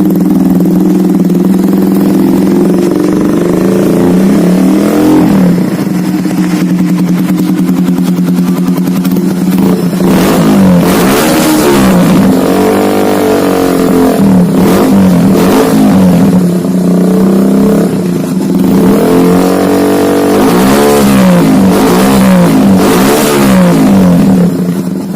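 Kawasaki Estrella W175's single-cylinder four-stroke engine, breathing through an aftermarket racing muffler, idling and then blipped with quick throttle revs in several bunches, each rev rising and falling back to idle.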